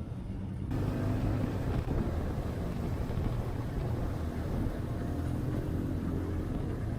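Motorcycle engine running steadily while riding, a low rumble under wind rush.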